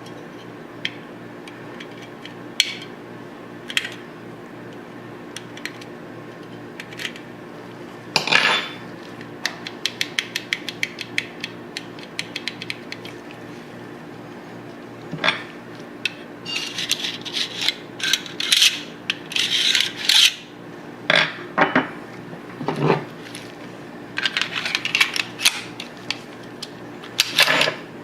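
Steel parts of a Tokarev TT-33 pistol clicking, ticking and scraping against each other as the pistol is put back together. There are scattered single clicks, then a quick run of light ticks, then stretches of metal scraping and rattling, over a steady low hum.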